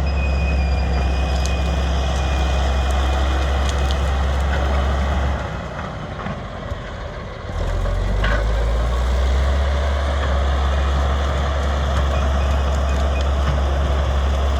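Diesel engine of a large crawler bulldozer, a D8, running under load with a steady low drone. Its note drops away about five seconds in and comes back two seconds later.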